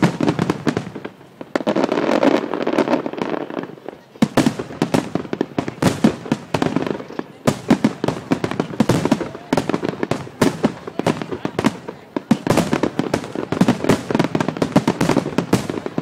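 Aerial fireworks bursting in a rapid, continuous barrage of bangs and crackles, with short lulls about one and four seconds in.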